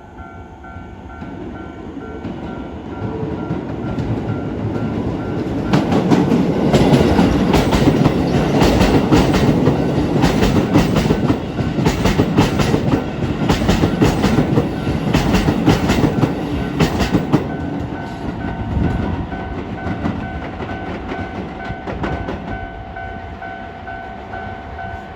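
Keisei 3000 series electric commuter train passing over a level crossing. Its running noise builds, then rapid wheel clacks over the rail joints and crossing run for about ten seconds at the loudest, then the noise slowly fades. The level crossing's warning bell rings steadily, clear at the start and again as the train fades.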